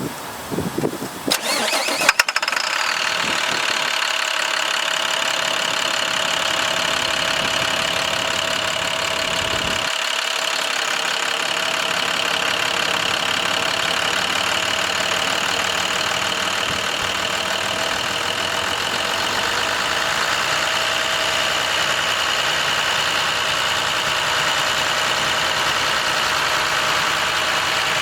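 International MaxxForce DT diesel engine cranking and catching about two seconds in, then idling steadily.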